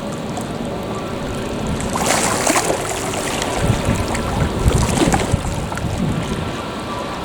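Wind buffeting the microphone in gusts, loudest about two seconds in and again near the middle, over a steady faint hum from a distant jet airliner.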